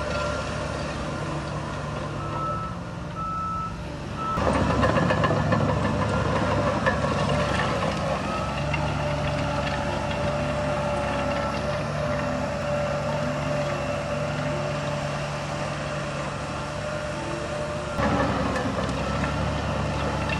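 Reversing alarm beeping over the running diesel engine of heavy earthmoving equipment. The engine gets louder about four seconds in and again near the end.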